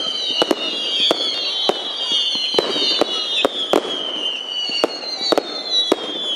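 Fireworks going off: a string of sharp bangs, about one or two a second, over several overlapping high whistles that slide slowly down in pitch.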